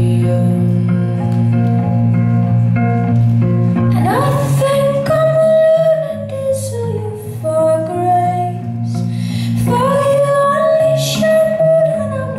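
Live song: a plucked guitar picking a repeating figure over a held bass note, with a woman's voice sliding up into long held notes about four seconds in and again near ten seconds.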